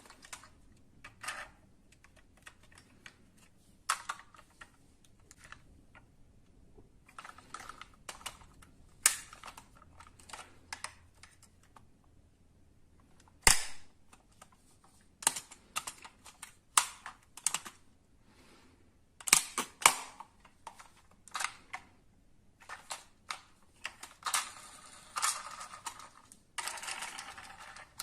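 Irregular clicks, taps and light knocks of small die-cast metal model cars being handled and set down on a hard surface, with a denser rattling run near the end.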